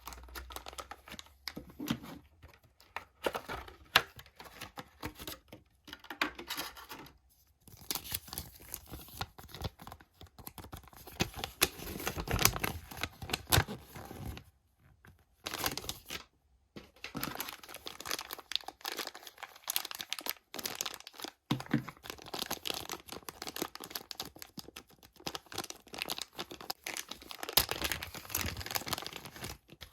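Toy packaging being torn open and crinkled by hand in irregular bursts, with a few short pauses.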